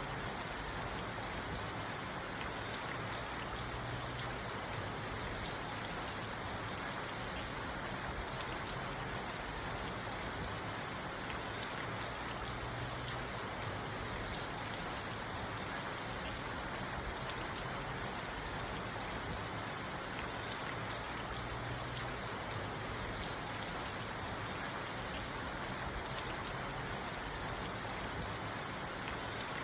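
Steady rain falling on a parked car, heard from inside the cabin as an even, unbroken patter on the roof and glass.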